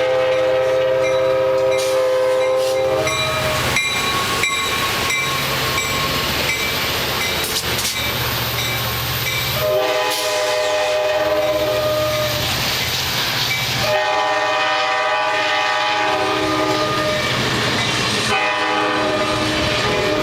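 F59PHI diesel locomotive's K5LA five-chime air horn sounding a series of long blasts over the train's running noise: one blast ends about three seconds in, and after a stretch of running noise two long blasts follow, with a third starting near the end.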